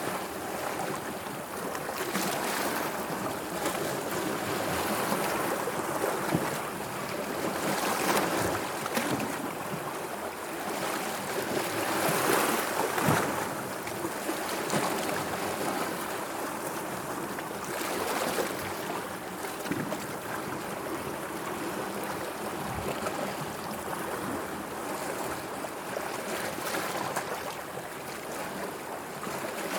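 Sea water washing and lapping continuously, swelling and easing every few seconds.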